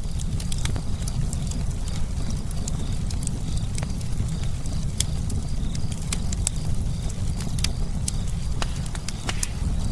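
Campfire crackling: irregular sharp snaps and pops from the burning wood, several a second, over a steady low rumble.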